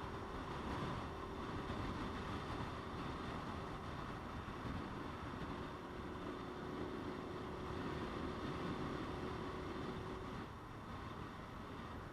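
Motorcycle riding at a steady speed, with wind rushing over the microphone and a steady hum that stops, the sound easing slightly, about ten seconds in.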